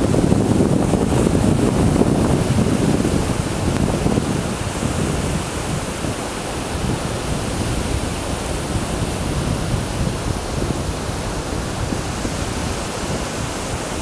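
Steady rushing noise of wind on the microphone mixed with sea surf, a little louder over the first few seconds and then even.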